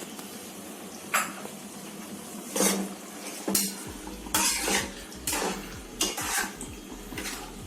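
A utensil stirring and scraping against a cooking pan of sauce, with irregular strokes about once a second over a steady low hum. The sauce is being stirred as cornflour slurry thickens it into gravy.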